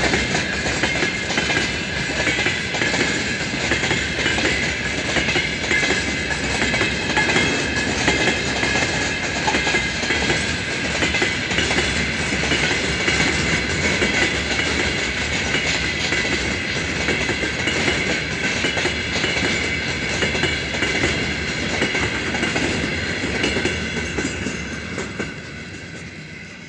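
Freight train of gondola cars rolling past: a steady rumble of wheels on rail with clickety-clack over the joints and a ringing wheel-on-rail tone. It fades in the last few seconds as the train moves away.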